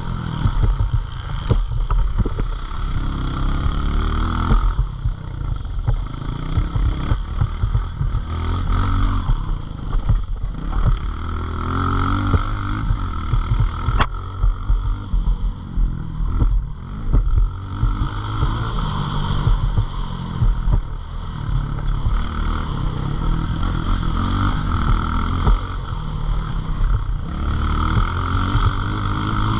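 Pit bike engine revving up and dropping back again and again, rising in pitch through each run, as the bike is ridden. There is a heavy low rumble underneath and one sharp click about halfway through.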